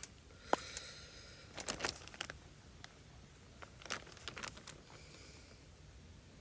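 Scattered light clicks and taps with a brief crinkling rustle, from a sesame-oil bottle and packaging being handled while cooking.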